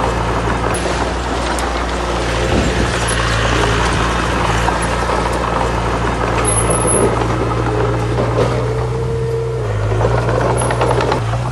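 Heavy diesel construction machinery running steadily, with scattered knocks and rattles and a brief whine about nine seconds in.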